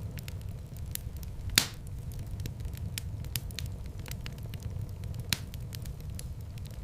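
Fire burning in a fireplace: a steady low rumble of flame with many small crackles. Two louder pops come, one about one and a half seconds in and one a little after five seconds.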